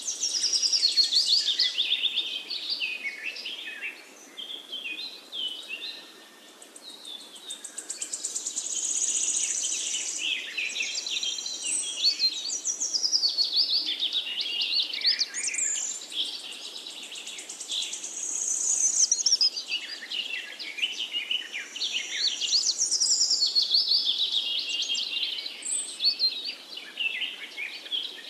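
Many birds chirping and twittering at once: a dense, continuous chatter of high, quick calls that swells and dips in loudness.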